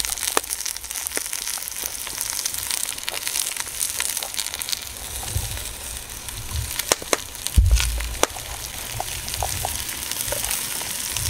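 Potatoes, onions and shallots frying in a Dutch oven, a steady sizzle with scattered sharp clicks and knocks of the pot and utensils. A dull low thump comes about two-thirds of the way through.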